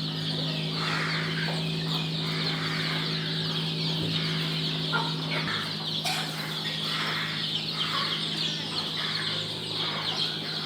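Chickens clucking and calling repeatedly, with a steady low hum that cuts off about halfway through.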